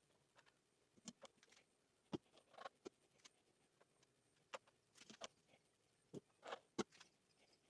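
Faint, scattered clicks and light knocks, about a dozen, with the loudest just after two seconds in and again near the end: tools and parts being handled on a lawnmower during a service.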